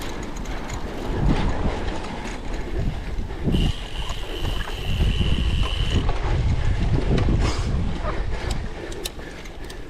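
Cyclocross bike ridden over rough ground, with wind buffeting the microphone and the bike rattling and knocking over bumps. A steady high squeal sounds for about two and a half seconds midway.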